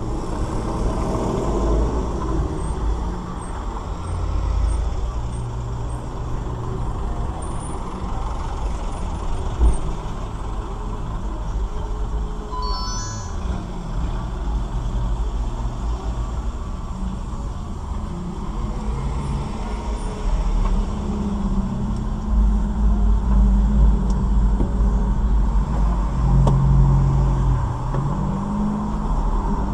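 Vehicle engine and road noise, a steady low rumble as heard by a dashcam in a moving car, with one sharp bang about ten seconds in and a short high tone a few seconds later.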